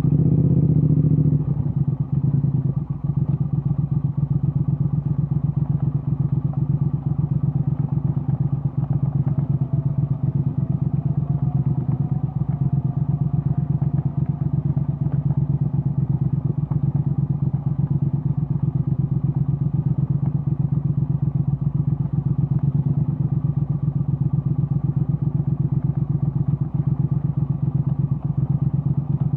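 Triumph Speed Twin 1200's 270-degree parallel-twin engine running through an aftermarket Vance & Hines exhaust. The note is a steady, evenly pulsing low rumble at low revs, a little louder for the first second or so.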